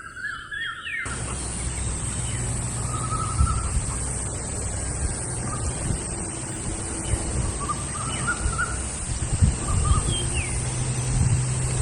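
Birds giving short, repeated calls over steady outdoor background noise, which comes in abruptly about a second in along with a low hum.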